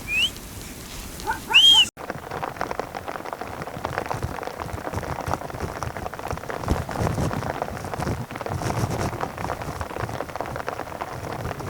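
A few short, high chirping calls, then after a sudden cut about two seconds in, a dense, irregular pattering of many small ticks.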